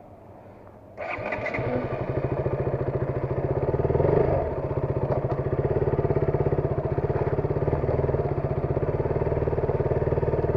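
Motorcycle engine starting about a second in, then running with a steady beat. It grows briefly louder about four seconds in.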